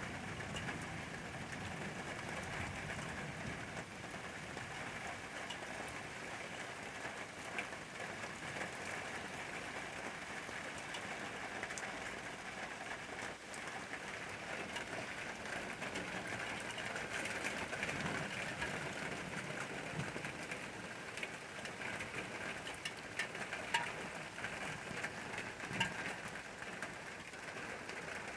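Steady rain falling, with many single drops ticking sharply on a hard surface over an even hiss.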